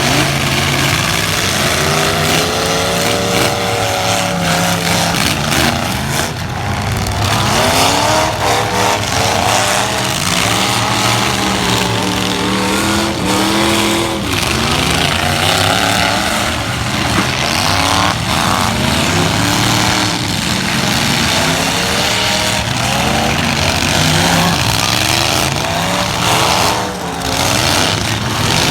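Several light-truck engines revving up and down and overlapping in a demolition derby, their pitches rising and falling as the trucks accelerate and back off.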